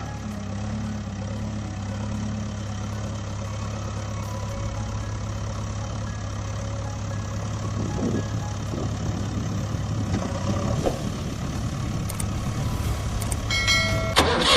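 Vehicle engine idling with a steady low hum. A short high-pitched tone comes near the end.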